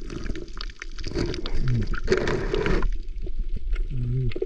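Water gurgling and bubbling around a diver, with a burst of rushing bubbles about two seconds in, lasting under a second.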